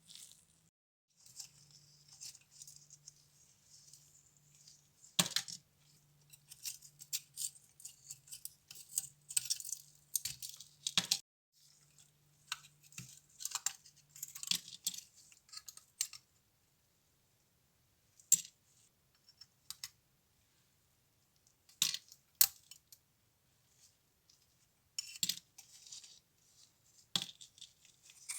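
Small metal parts of a diecast model car clicking and clinking as they are handled on a work surface. The clicks are dense in the first half, over a faint steady hum, and then come a few at a time.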